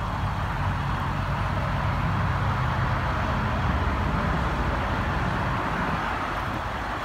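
A Ford Mustang GT's 5.0-litre V8 idling steadily, with a constant hiss over it.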